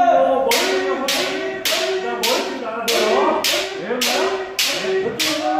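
Bamboo shinai striking kendo armour in a steady run, about nine hits a little over half a second apart, over the sustained kiai shouts of the practitioners.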